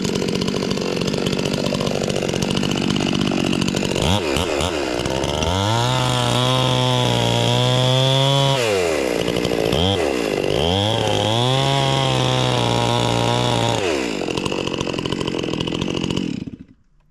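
Electric chainsaw cutting into a fir trunk, likely boring into the middle. It runs steadily at first, then twice bogs down to a deeper, lower pitch for about three seconds as the chain is pushed into the wood. It stops suddenly near the end.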